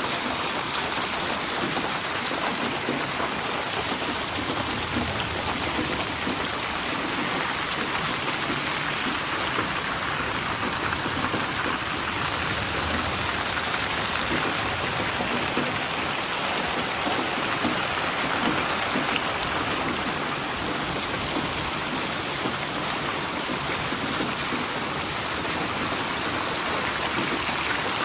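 Steady rain falling, an even hiss with fine drops pattering on a surface.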